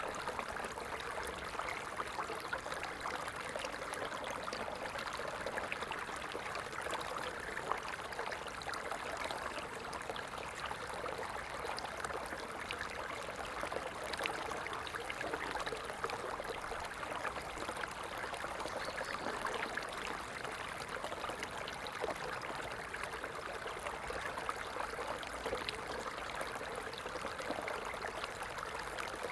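A stream running steadily: a continuous rush of flowing water with fine splashing detail and no breaks.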